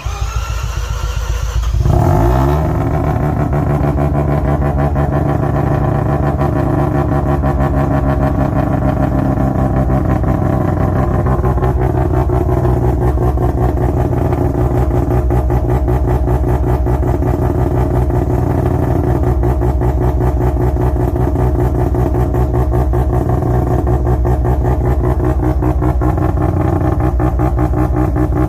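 Mazda RX-7 FD3S's half-bridgeported 13B twin-rotor rotary engine starting from cold: it fires and its revs flare about two seconds in, then it settles into a choppy, pulsing "brap brap" idle, typical of a bridgeported rotary.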